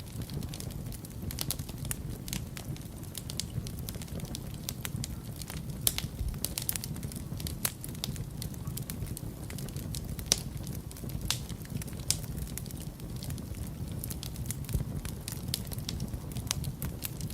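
Wood fire burning in a fireplace: irregular crackles and sharp pops over a steady low rumble of flames, with a few louder pops about 6 and 10 seconds in.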